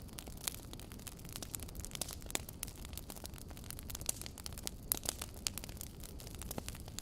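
Fireplace fire crackling: irregular sharp pops and snaps, several a second, over a steady low rumble of burning.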